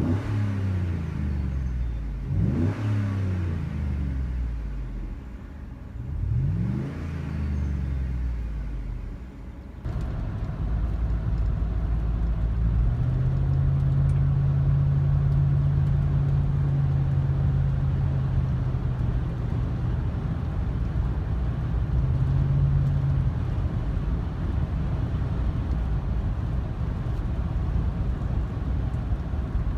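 A 2008 Chevy Tahoe's 5.3 Vortec V8 through a Borla Pro XS muffler, idling and revved twice, each rev rising and falling in pitch. About ten seconds in, the sound changes to a steady, deeper engine drone that holds through the rest.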